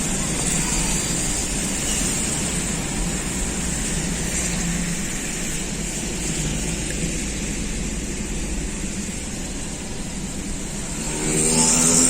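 Steady street traffic noise with a hiss, consistent with tyres on a wet road after rain. Near the end a vehicle engine revs up, rising in pitch and getting louder.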